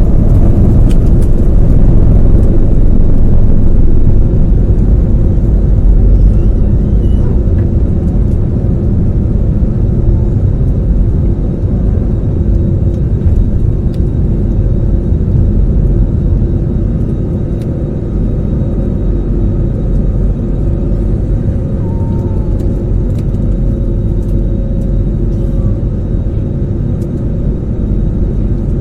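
Airliner taking off: a loud, steady low rumble of jet engines and the aircraft, easing off gradually after the first few seconds.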